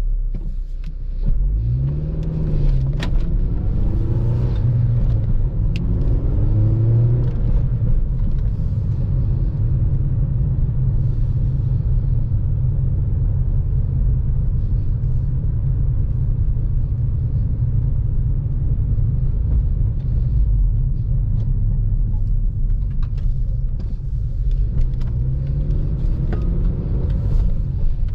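2014 Honda Civic Si's 2.4-litre four-cylinder engine and road rumble while driving. The engine pitch climbs several times in the first seven seconds, accelerating through the gears of the manual gearbox, holds steady at cruise, then climbs again near the end.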